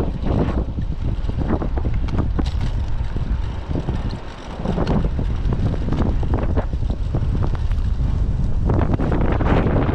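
Typhoon wind buffeting the microphone in heavy gusts, a loud rumbling flutter that eases briefly about four seconds in.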